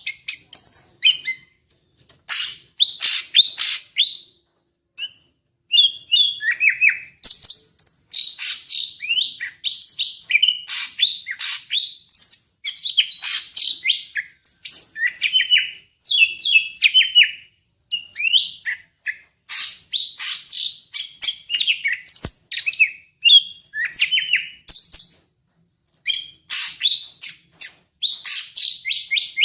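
Greater green leafbird (cucak ijo) singing a fast, varied song of chirps, whistles and trills. The phrases are strung together almost without a break, with short pauses only a few times.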